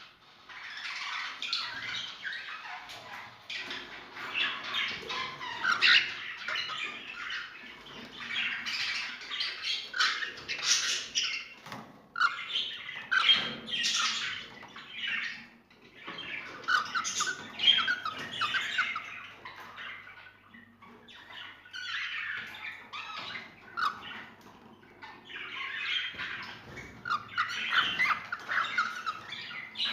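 Pet ornamental birds chattering and squawking together, in busy runs of several seconds broken by short lulls.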